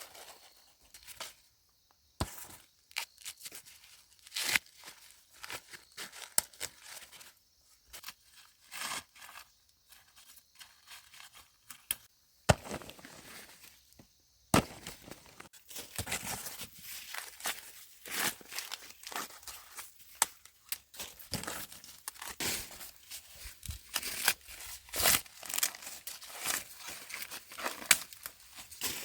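Dry corn plants rustling and tearing, with irregular sharp snaps and cracks as ears of corn are broken off the stalks by hand. The snapping and rustling grows busier about halfway through.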